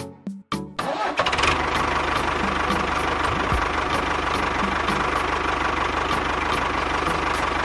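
A few short clicks, then an engine starts about a second in and runs steadily.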